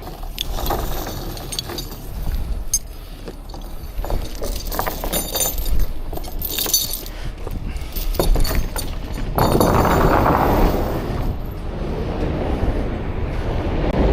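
Steel rigging chain clinking and rattling as it is handled, over a steady low rumble, with a longer scraping rush about ten seconds in.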